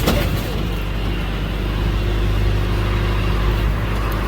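Bus engine running with a steady low hum, with a faint steady whine in the middle.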